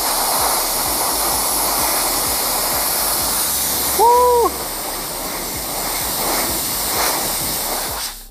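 Compressed air hissing steadily from an air-compressor blow-gun nozzle. It stops abruptly near the end. A short tone that rises and falls sounds once about four seconds in.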